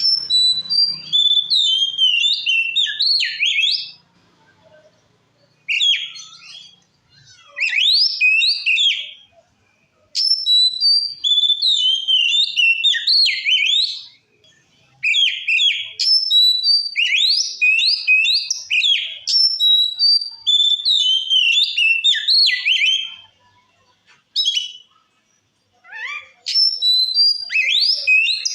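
Oriental magpie-robin (kacer) singing loudly in clear whistled phrases: rapid runs of rising and falling notes in bouts of two to four seconds, with short pauses between them.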